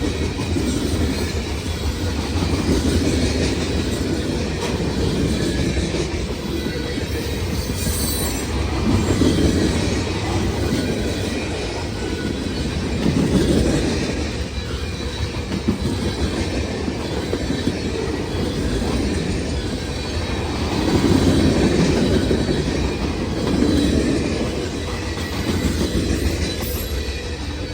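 Freight cars of a long freight train rolling past on steel wheels, a steady rumble that swells and eases in waves as the cars go by, with a faint high wheel squeal.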